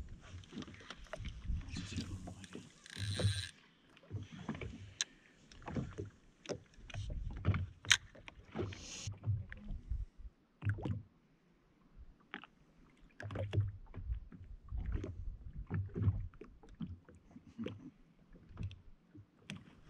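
Small waves lapping and slapping against the hull of a drifting jetski, with irregular knocks and clicks from the hull and fishing gear.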